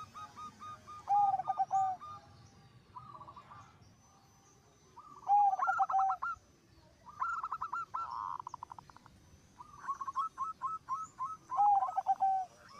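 Zebra doves (perkutut) cooing: about four phrases of quick stuttering notes, each ending in lower, drawn-out coos, with more than one bird calling.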